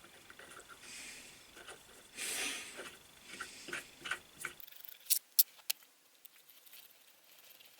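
Steel adjusting screw being wound through the threads of a lathe fixed steady, with small scraping and ticking of metal parts being handled, a short scratchy rasp about two seconds in, and three sharp metallic clicks about five seconds in.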